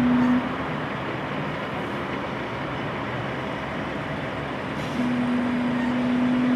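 Heavy trucks' engines running, with a loud steady low tone that stops about half a second in and comes back about five seconds in.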